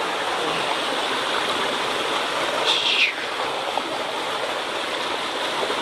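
Rushing water of a mountain stream swollen after a typhoon, a steady rush throughout, with a brief high, slightly falling squeak about three seconds in.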